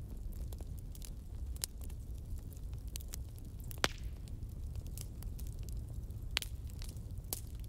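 Fire crackling: irregular sharp pops and snaps over a steady low rumble, with the loudest pops just before four seconds in and again about six and a half seconds in.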